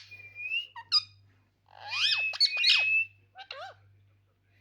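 Pet parrot calling: a held, slightly rising whistled note, then a burst of sharp squeaks and swooping squawks in the middle, and a couple of shorter calls near the end, over a faint steady low hum.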